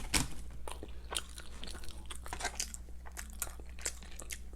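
Close-up chewing and crunching of crispy fried chicken fries: irregular crisp crunches and clicks of the mouth, with no talking.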